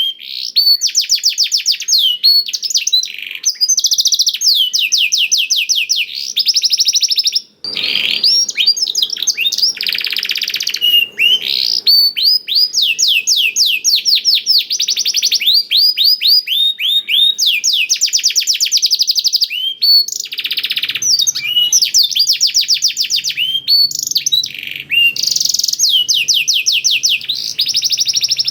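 Domestic canary singing a continuous song of rapid trills and fast-repeated high chirps, its song filled in with phrases learned from the blackthroat (black-throated canary).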